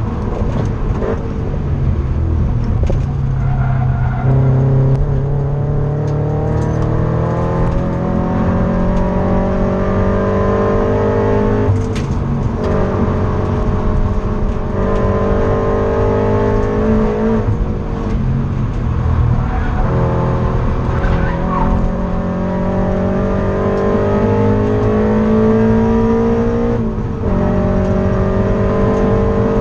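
Subaru BRZ's flat-four engine under hard acceleration, heard from inside the cabin, with the revs climbing steadily and then dropping sharply several times as the driver shifts or lifts. There is a short knock with one of the drops about twelve seconds in.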